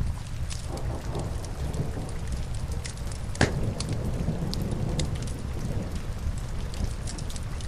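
Wood fire crackling with scattered small pops and one sharp, louder pop about three and a half seconds in, over a steady low rumble of rain.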